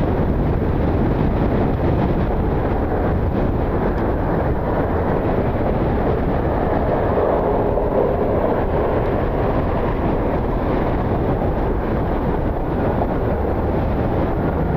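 Strong gusty wind buffeting the microphone, a steady low rumble throughout, with a faint tone showing briefly about halfway through.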